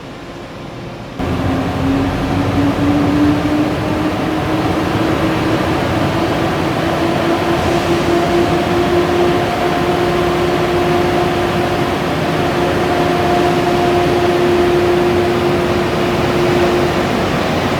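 Siemens Taurus electric locomotive (ÖBB 1116) pulling away with a Railjet train. About a second in, power comes on with a jump in level. The traction converter's whine rises in pitch for several seconds, then holds steady over a continuous rumble of running gear.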